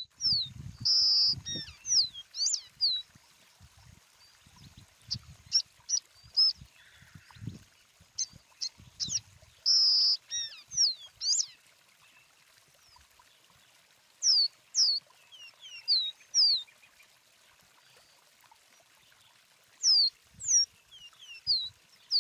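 A songbird singing runs of short, high, downward-slurred notes in separate phrases with gaps between them. Faint low thumps come in the first half.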